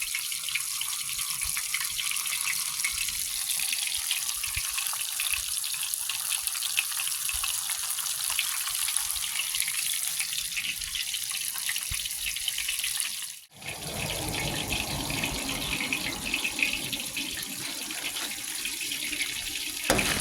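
Battered fish frying in hot grease in a pan: a steady, dense sizzle with fine crackling. The sound cuts out briefly about two-thirds through, then carries on.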